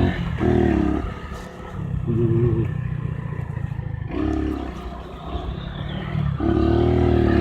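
Honda CG 150 single-cylinder motorcycle engine riding off-road, its note rising in several short throttle surges and dropping back between them, over a steady low rumble.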